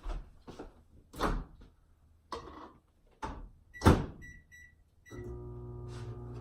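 Knocks and clunks of a bowl and microwave oven door being handled, with a loud thunk of the door shutting about four seconds in. Several short keypad beeps follow, then the microwave oven starts running with a steady hum.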